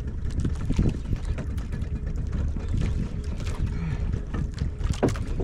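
Rumbling wind and water noise on a small fishing boat at sea, with scattered knocks and clicks.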